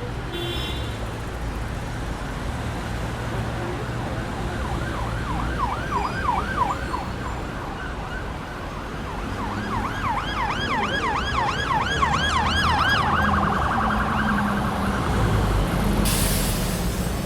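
Siren-like yelp, a fast rising-and-falling wail at about four sweeps a second, heard in two spells, the second one longer.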